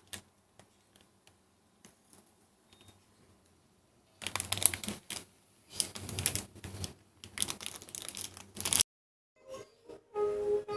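Crackly crunching and crinkling from a snack being eaten, in four bursts of about a second each in the middle, after a few seconds of faint clicks. Music starts near the end.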